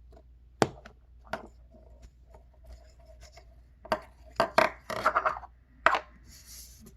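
A toy egg and small toy pieces handled by hand, as the egg is made to hatch: scattered clicks and knocks with rubbing and scraping between them, and a quick run of knocks about four to five seconds in.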